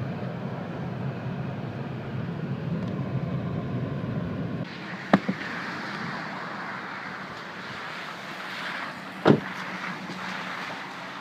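Car on the move: steady engine and road noise. A little under halfway through it changes abruptly to a lighter hiss without the low rumble. Two sharp knocks come in the second half, about four seconds apart.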